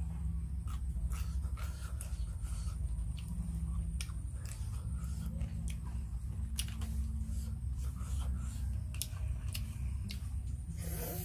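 Close-up eating sounds from a plate of raw crab salad: hard crab shell pieces clicking and cracking between the fingers, with chewing, over a steady low rumble. A brief wavering, voice-like sound comes right at the end.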